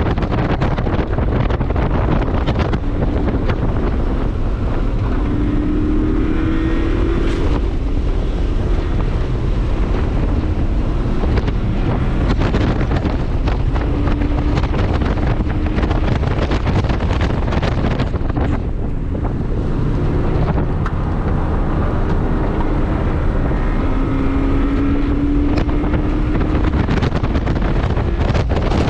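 Heavy wind noise buffeting the microphone over a 2001 Subaru Impreza 2.5RS's 2.5-litre flat-four engine, which is pulling up through the revs under acceleration, its pitch rising three times.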